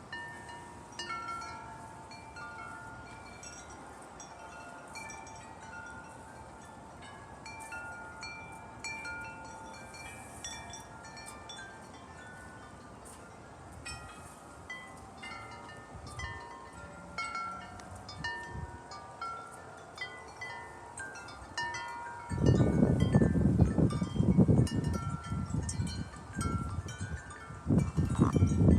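Wind chimes ringing in the wind: overlapping high bell-like tones struck at random as the chimes swing. In the last few seconds a strong gust blows across the microphone in two loud rumbling rushes that drown much of the chiming.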